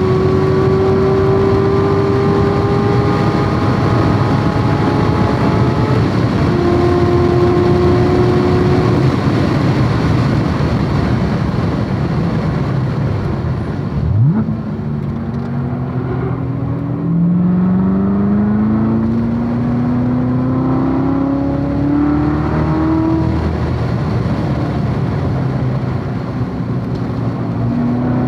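Supercharged 6.2-litre V8 of a C7 Corvette Z06 running hard at high revs on track, over heavy wind and road noise. About halfway the engine note drops away sharply, then climbs steadily in pitch again as the car accelerates.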